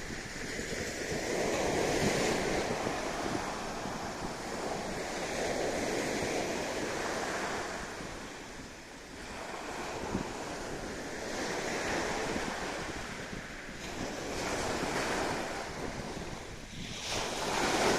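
Black Sea waves washing onto the shore, the surf swelling and ebbing every few seconds, with wind rumbling on the microphone.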